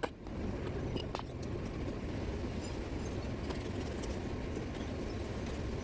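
Steady low rumble with a few light, sharp metallic clinks or taps scattered through it, one at about a second in ringing briefly.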